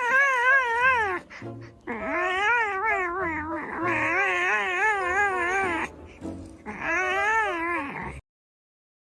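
A cat yowling in three long, drawn-out calls, the pitch wavering up and down in a steady wobble through each call.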